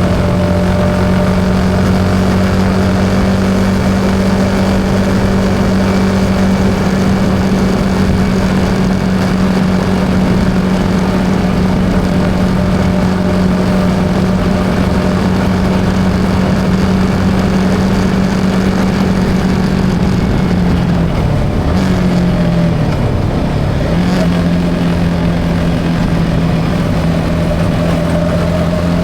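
Yamaha XSR 155's single-cylinder engine running at steady road speed, with wind and road noise. About three-quarters of the way through, the engine note drops briefly and climbs back up.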